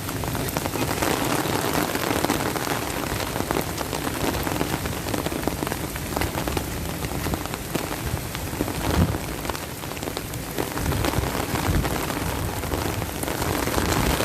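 Steady rain falling on hard surfaces, a constant hiss full of small drop ticks, with a few low thumps about two-thirds of the way through.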